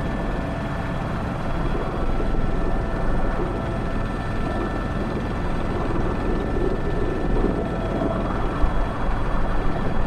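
Airbus H125 single-engine helicopter in flight, heard from the cockpit: a steady rotor and turbine drone with a few constant whining tones over it.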